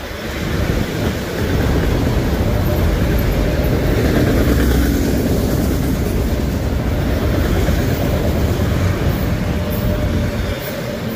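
Autorack freight cars rolling past close by, a steady rumble of steel wheels on the rails.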